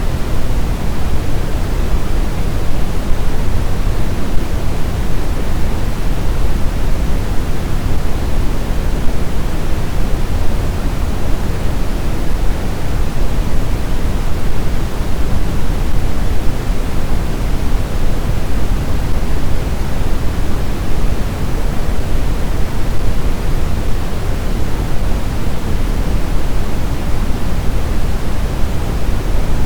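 Blizzard wind: a steady, even low rush of noise with no distinct gusts or whistling.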